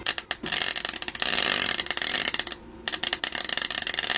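MIG (wire-feed) welder arc crackling in two runs, with a short break about two and a half seconds in. The spool of welding wire is running out.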